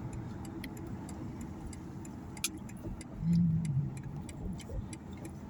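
Car interior with steady low road and engine noise while driving, and the turn-signal indicator clicking evenly, a few clicks a second, ahead of a left turn. A short low hum, the loudest moment, comes a little past three seconds in.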